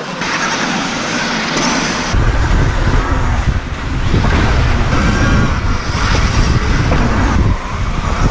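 KTM electric motocross bike being ridden hard on a dirt track, heard through an onboard camera: a steady rush of air and tyre noise, heavy rumbling buffeting from about two seconds in, and a faint motor whine rising and falling.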